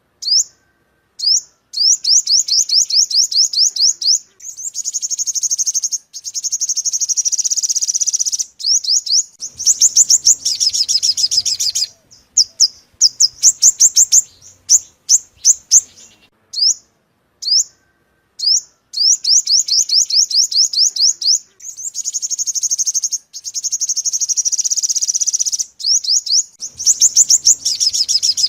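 Yellow-bellied sunbird song: rapid high trills and sharp chirps in runs of a few seconds with short gaps between them. The same sequence of phrases comes round again partway through, as from a looped lure recording.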